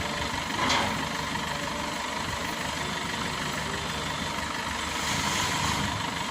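Combine harvester engine running steadily, with a short louder burst about a second in and a hissing rise near the end.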